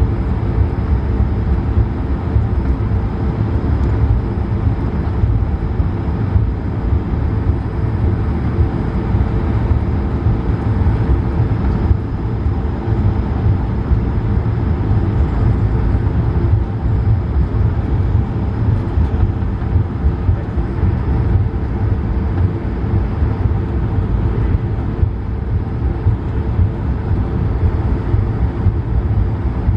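Steady engine rumble inside the cabin of an Airbus A220-300, from its Pratt & Whitney PW1500G geared turbofans, with a faint high whine above it.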